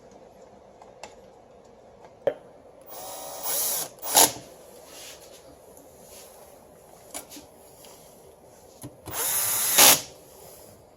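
A handheld power driver runs in two short bursts of about a second each, one about three seconds in and one near the end, with a few sharp clicks of small parts being handled in between.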